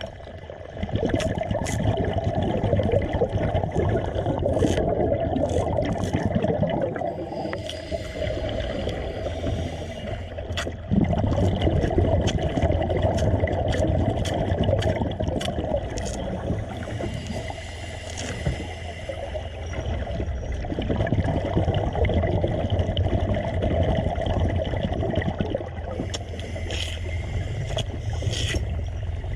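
Water gurgling and churning over a steady low mechanical hum, with scattered sharp clicks and knocks. There is a sudden jump in loudness about eleven seconds in.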